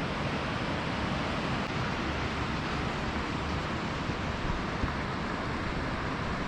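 Steady rush of water from a mountain stream, an even noise with no breaks.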